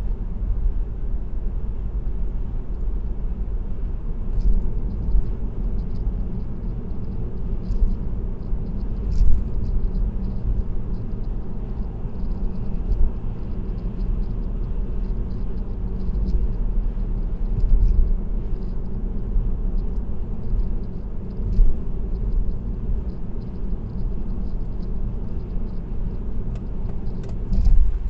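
Steady low road rumble of a car cruising at highway speed, tyre and engine noise heard from inside the cabin, with scattered faint ticks.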